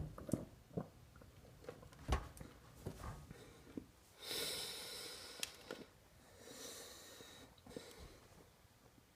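A man breathing heavily and wheezily through his nose while eating, with two long hissing breaths in the second half and scattered soft knocks and clicks from handling food.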